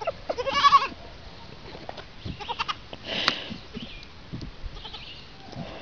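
A goat kid bleating once, briefly, about half a second in, followed by a few scattered light knocks and a short hiss near the middle.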